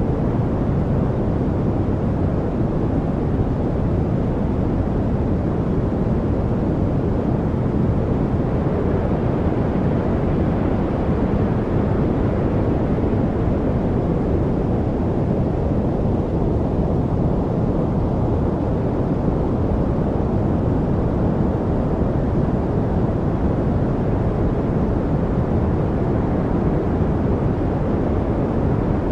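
Steady white-noise study track with a deep, rumbling tone, most of its weight low down and little hiss at the top, holding an even level without change.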